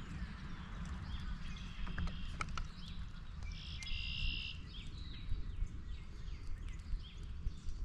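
Wild birds calling: short high calls, the loudest a little before the middle, followed by a run of brief downward-sliding notes. Underneath is a steady low rumble and scattered sharp clicks.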